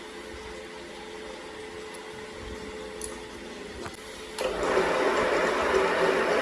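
A workshop machine running steadily with a motor hum and a few faint clicks, becoming suddenly louder about four and a half seconds in.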